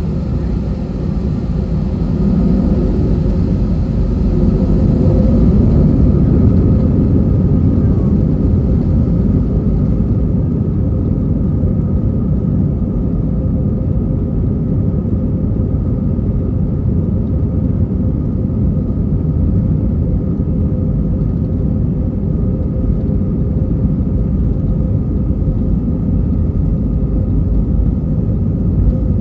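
Cabin noise of an Airbus A319 on departure, heard from a window seat: a loud, steady jet-engine and airframe rumble with a steady hum over it. It swells over the first few seconds and then holds level.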